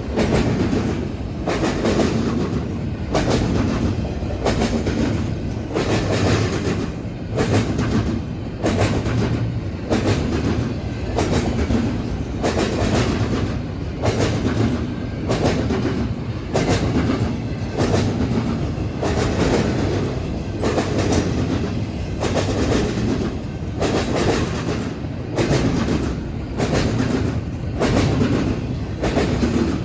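Freight train's wheels clattering over a railroad diamond crossing, a steady, even rhythm of sharp clacks over the rolling rumble of the cars.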